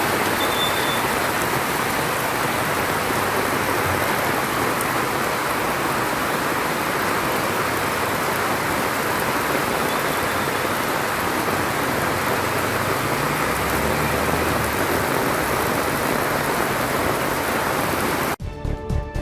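Heavy monsoon rain falling steadily, a dense even hiss. Near the end it cuts off abruptly and music begins.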